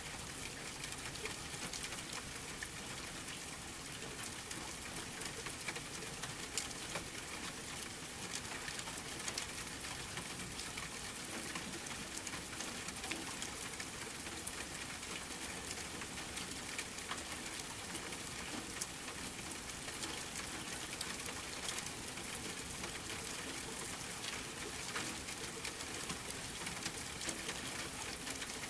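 Steady rain mixed with a crackling fireplace: an even hiss with scattered sharp pops and clicks.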